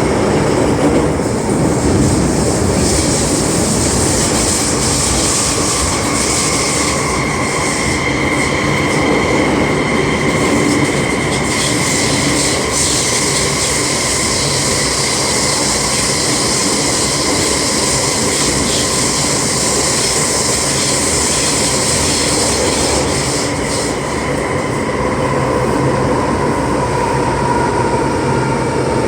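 Cab-less passenger-car interior noise of an MTR M-Train (Island Line set) running between stations: a steady rumble of wheels on rail with whining tones from the traction motors. Near the end one whine slowly drops in pitch as the train begins to slow.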